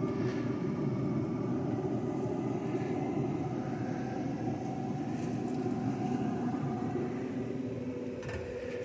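Steady low rumble with a faint hum, like a fan or motor running, holding even and easing slightly near the end.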